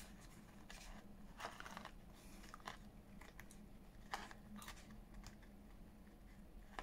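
Faint, scattered small clicks and rustles of paper and small craft pieces being handled, about half a dozen over a quiet room.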